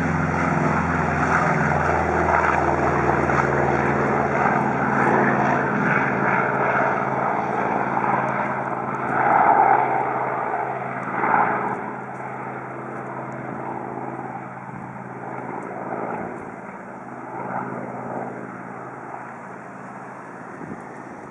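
Piston engine of a vintage propeller warbird running steadily, its sound fading over the second half.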